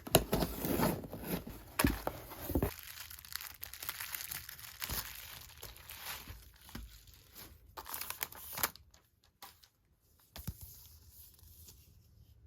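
Parcel packaging being torn open and crinkled by hand, busiest in the first three seconds, with another short burst of crinkling about eight seconds in and scattered small rustles after.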